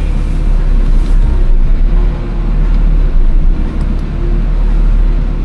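Diesel engine of a large wheel loader running with a steady low rumble.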